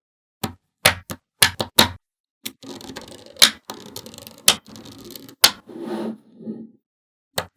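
Small magnetic balls clicking as they snap together: several separate sharp clicks, then a few seconds of continuous rattling with a louder snap about once a second.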